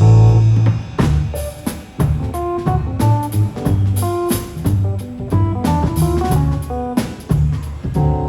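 A band playing live music, with guitar notes over a bass line and a steady drum-kit beat.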